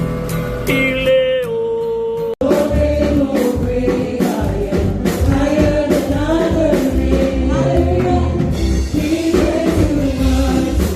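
Music: a sustained, held chord that cuts off suddenly about two seconds in, then a choir singing gospel-style over a heavy low beat.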